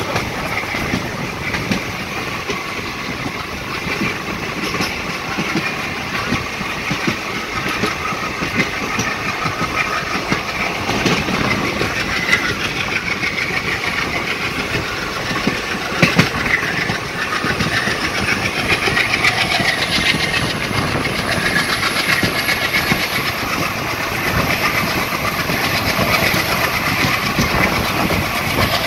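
Passenger train coach running along the track, heard from an open door: steady wheel-on-rail running noise with clicks over the rail joints and one sharper knock about halfway through.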